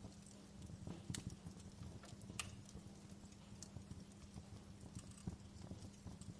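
Wood fire burning in a fireplace, crackling and popping irregularly over a low steady rumble, with a couple of sharper pops about a second and two and a half seconds in.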